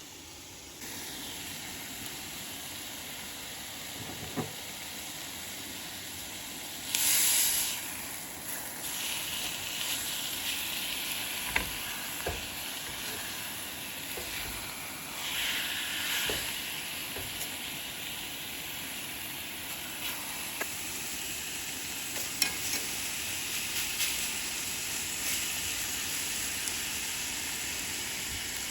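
Steak and onions sizzling in a cast iron skillet, frying in the steak's own fat with no butter or oil. The sizzle swells louder twice, about seven and about fifteen seconds in, with scattered small crackles.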